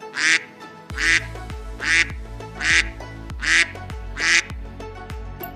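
A duck quacking six times at an even pace, about one quack every 0.8 seconds, over background music with a bass line that comes in about a second in.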